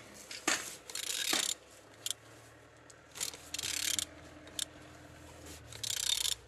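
A ratchet wrench clicks in short bursts as a G4GC engine is turned over by hand, about six strokes with pauses between them. The engine turns freely, so it is not seized.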